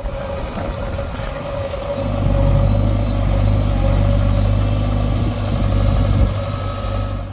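Heavy diesel engine of earth-moving machinery running, with a steady whine above it; it grows louder about two seconds in and holds there until near the end.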